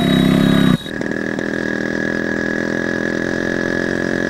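Yamaha RX100 two-stroke motorcycle engine revving hard, cut off suddenly less than a second in. A motorcycle engine then runs steadily at a lower level, slowly getting louder.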